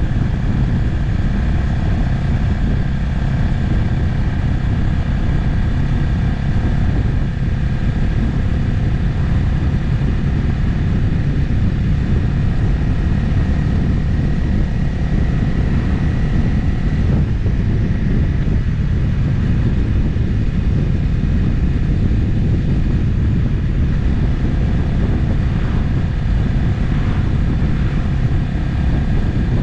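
Motorcycle riding at a steady cruising speed: the engine running at a constant pitch over a dense, even low rumble, with no gear changes or revving.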